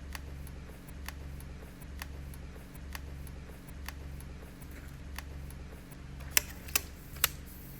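Wood campfire crackling: sharp single pops about once a second, with three louder pops close together near the end, over a low steady rumble.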